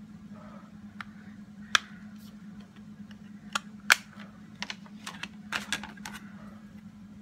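A dozen or so sharp taps and clicks of a stamp block being inked and set down on the craft table, most of them packed close together past the middle, over a steady low hum.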